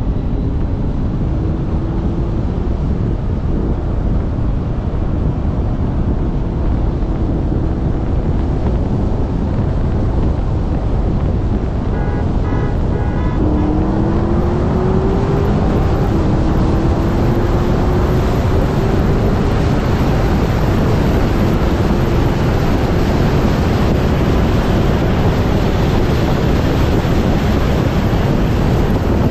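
Heavy wind buffeting on a car-mounted camera's microphone at speed, over a car engine. About halfway through the engine pulls hard, its pitch rising, drops once as a gear is shifted, and rises again.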